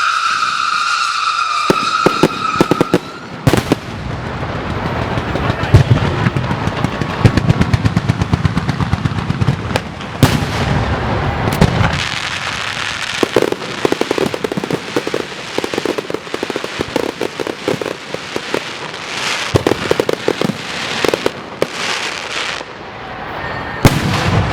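Strings of firecrackers crackling in dense, rapid volleys of sharp cracks, set off as a ceremonial salute. A high falling whistle sounds at the very start.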